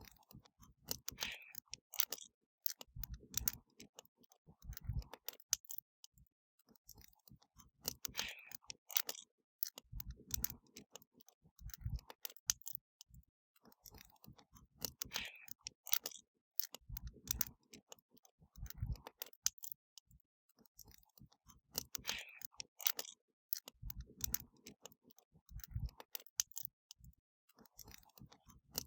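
Wood fire crackling: a steady run of sharp snaps and pops with occasional deeper thuds, the same pattern repeating about every seven seconds.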